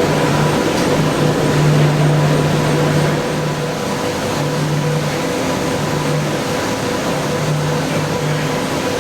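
Röders RXP801Z2 high-speed CNC milling machine cutting a hardened tool-steel block: steady machining noise with a constant whine, and a lower hum that cuts in and out every second or two.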